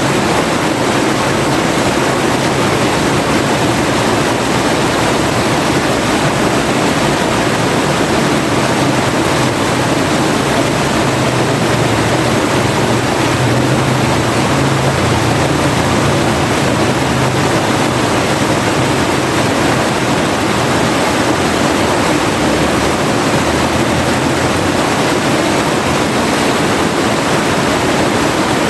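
River water flowing and rushing over rocks: a loud, steady roar of running water.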